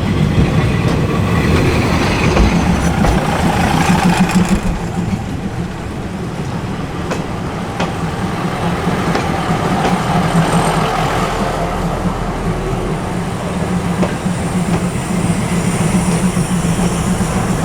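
Diesel train running slowly through the railway market with a steady engine drone and occasional clicks from the wheels on the track.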